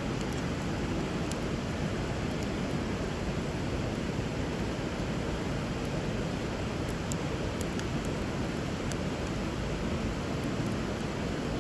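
Steady rush of flowing river water, with occasional faint, sharp crackles from a burning wood fire.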